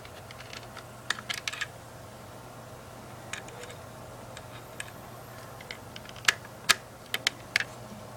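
Irregular sharp clicks and taps in small clusters, like keys or small parts being handled, over a steady low hum.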